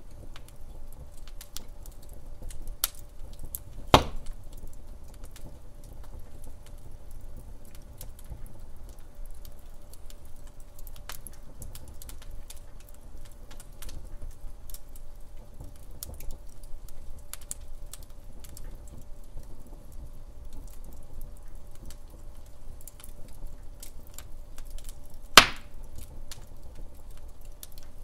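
Wood fire crackling in a fireplace: a steady low rumble with frequent small crackles, and two loud sharp pops, about four seconds in and near the end.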